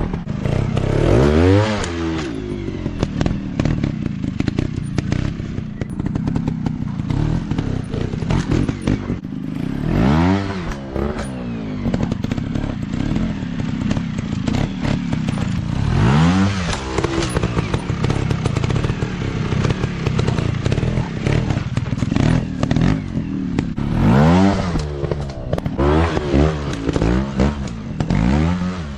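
Dirt bike engines running on a trial ride, revving in repeated throttle blips whose pitch climbs and drops back about six times, with clattering and knocks throughout.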